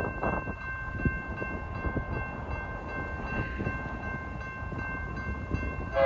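Approaching BNSF freight train: a steady low rumble with irregular knocks of wheels on the rail, under several steady high ringing tones. A locomotive horn starts sounding right at the very end.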